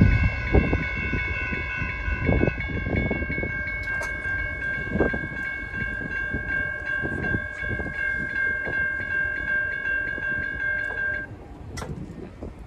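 Railroad crossing bell ringing steadily over the rumble and intermittent wheel clunks of a Norfolk Southern train rolling through the crossing; the bell stops about eleven seconds in and the rumble fades.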